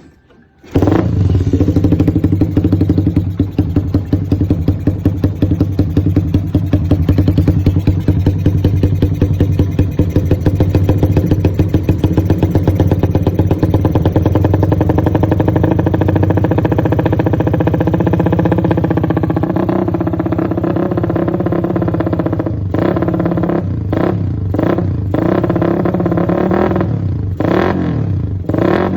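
Carburetted Suzuki Satria FU's 150 cc single-cylinder four-stroke engine running through an RMS racing exhaust, idling with a steady, pulsing beat. It comes on abruptly about a second in, and from about two-thirds of the way through it is broken by several short throttle blips.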